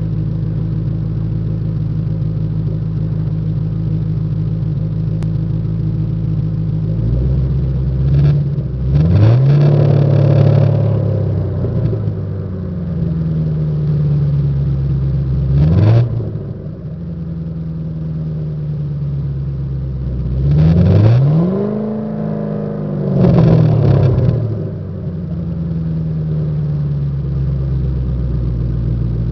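1997 Ford Thunderbird's exhaust, resonator removed and running through a Flowmaster muffler, idling steadily and then revved about five times, some as short sharp blips and some as longer revs, each one rising in pitch and dropping back to idle.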